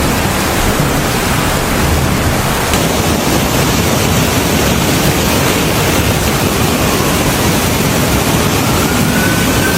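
Loud, steady rushing noise of flood water. A faint rising whine comes in near the end.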